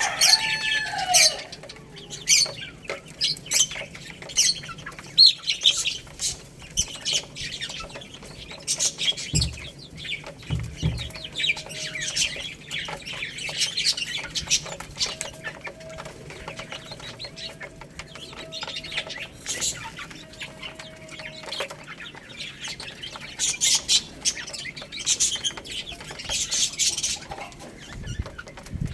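Baby chicks peeping, many short high-pitched cheeps overlapping without pause, with a few low thumps about ten seconds in.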